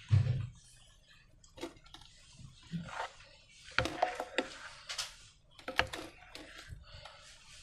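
Hands working slime, giving irregular sticky clicks and short squishes, with a dull thump at the very start.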